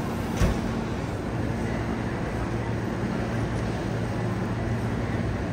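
Electric train running: a steady rumble with a low hum that firms up about a second in, and a single knock about half a second in.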